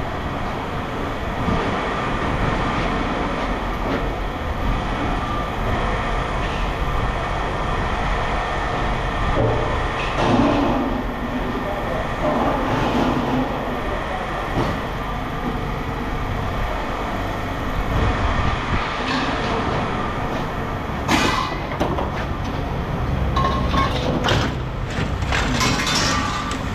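Steady mechanical rumble of scrap-yard machinery, with scattered sharp clanks late on.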